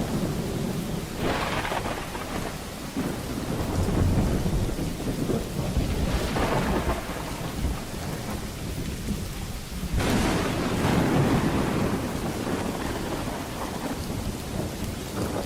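Thunderstorm: steady heavy rain with rolling thunder rumbling underneath, swelling in several waves, the loudest about ten seconds in.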